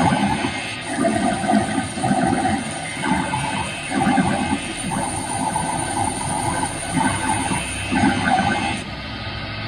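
Harsh electronic goregrind/noise music: distorted, grinding pulses about once a second over a steady high whine, which cut off shortly before the end.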